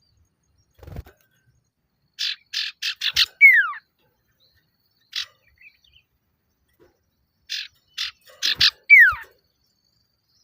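Male common iora (sirtu/cipoh) calling: two phrases of about five quick chirps, each ending in a loud falling whistle, with a single chirp between them. It is the male's challenge call, given to draw a rival.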